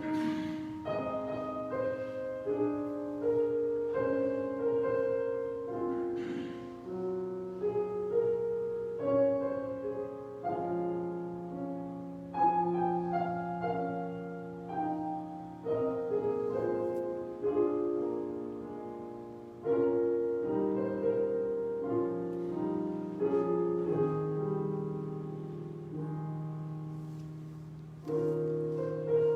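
Solo piano playing a slow offertory piece of melody and chords, each note struck and then fading.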